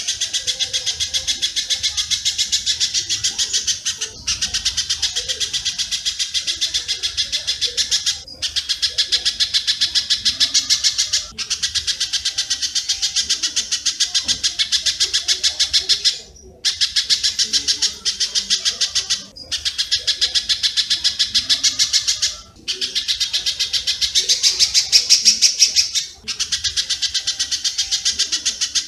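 Recorded bird-song training track of spiderhunter (pijantung) and swiftlet (walet) calls: fast, even trains of high, sharp chips in runs of about three to five seconds, broken by short gaps.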